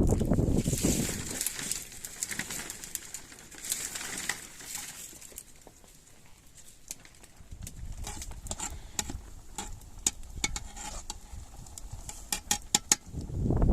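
Birds calling outdoors, with a scattered run of sharp clicks and taps in the second half.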